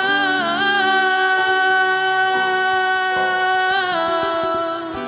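A woman's voice holding the long final note of a pop ballad, wavering with vibrato at first and then held steady, over sustained accompaniment chords. The note steps down to a lower pitch about four seconds in and fades just before the end.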